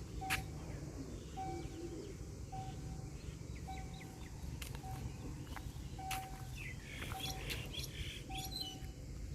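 A short electronic warning beep repeats about once a second, typical of a railway level-crossing alarm sounding ahead of an approaching train. Birds chirp over a low, steady rumble, and the chirps are busiest near the end.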